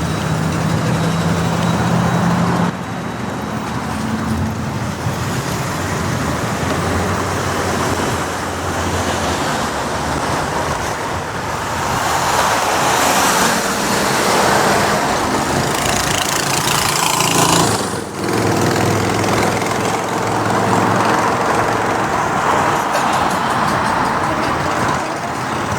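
City street traffic from a motorcycle riding through the streets: a steady engine hum under the noise of passing vehicles, with a brief drop in level about two-thirds of the way through.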